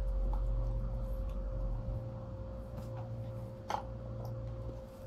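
Quiet chewing with small mouth clicks over a steady low electrical hum. One sharper click comes a little before four seconds in.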